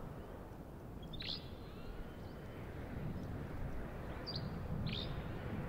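A small bird chirping: short, sharp calls, four times, over a steady low outdoor rumble.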